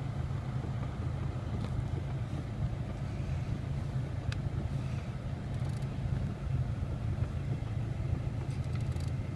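Volkswagen Golf Mk5 engine idling steadily, a low even rumble, with a few faint clicks at intervals, likely from the heater's hot/cold blend flap.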